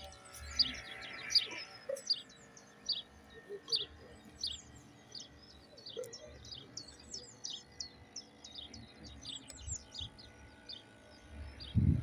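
Small birds chirping, with quick, sharp calls a few times a second. Just before the end a loud low rumble starts suddenly.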